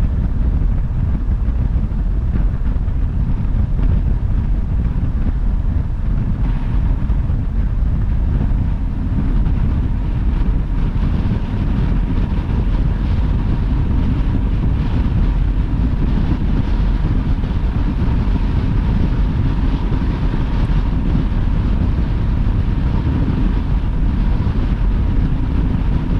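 Steady road and wind noise of a car driving at highway speed, a low rumble with a faint steady whine throughout.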